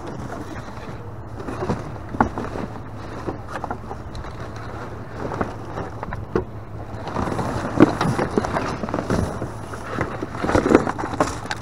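Rummaging through discarded goods in a dumpster: irregular rustling, clatter and knocks of items being shifted and handled, busier in the second half, over a steady low hum.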